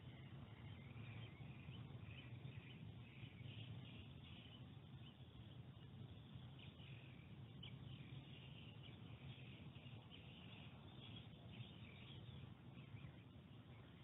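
Faint birds chirping and singing on and off, over a low steady hum.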